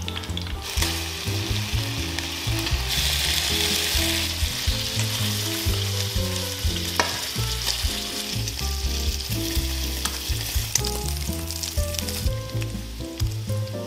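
Meat sizzling in hot oil in a frying pan as it is stirred and turned with tongs. The sizzle gets louder about three seconds in and drops back near the end, with a sharp click about seven seconds in.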